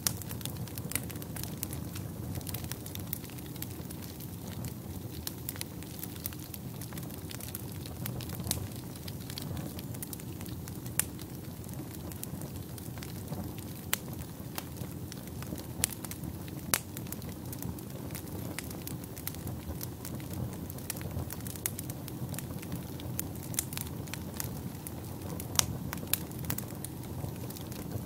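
Wood fire burning in a fireplace: a steady low rumble of flames with frequent sharp crackles and pops scattered throughout, a few of them louder.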